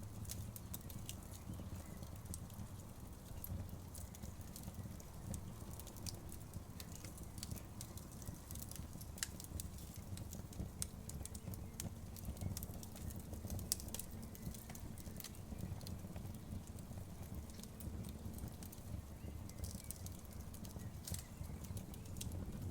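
Outdoor wood bonfire crackling: irregular sharp pops and snaps scattered over a low, steady rumble.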